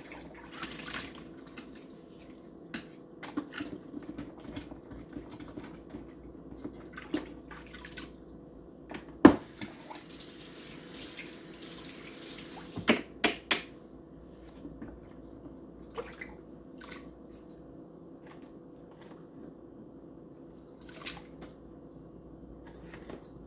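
Microwave turntable plate being washed in a sink: water dripping and splashing with scattered clinks and knocks of the plate, one sharper knock about nine seconds in and a quick few more around thirteen seconds.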